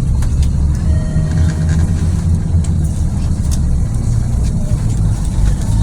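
Diesel engine and drivetrain of a 2009 Scania city bus with a Lahti Scala body running under way: a steady low rumble with occasional short rattles and clicks.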